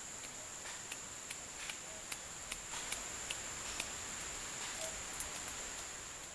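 Steady high-pitched chirring of insects, crickets or similar, with scattered faint clicks through it.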